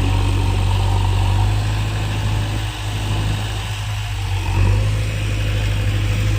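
JCB backhoe loader's diesel engine running with a steady low hum. Its note shifts about a second and a half in and comes back a little louder near the end.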